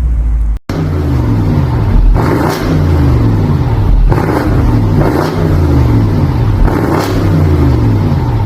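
BMW M850i's twin-turbo V8 revved hard several times in a row at standstill through a Brillante valved aftermarket exhaust with carbon tips, the pitch climbing and falling with each blip of the throttle.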